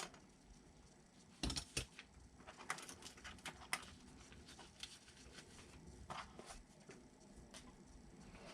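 Small RC kit parts being handled: scattered light clicks and taps, two sharper ones about one and a half seconds in and a few more a second or two later.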